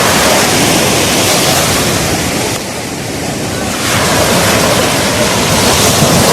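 Sea surf breaking and washing on the shore, a dense steady rush that eases for about a second around three seconds in and then swells again.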